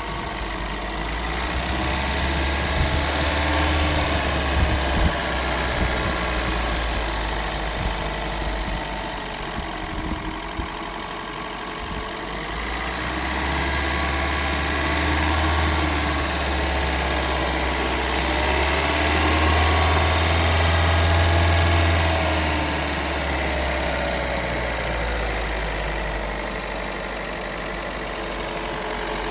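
Toyota Prius 1NZ-FXE 1.5-litre four-cylinder petrol engine revved gently up and down several times with the car in Park. The owner is hunting an engine knock/rattle that he says is only barely audible in this mode.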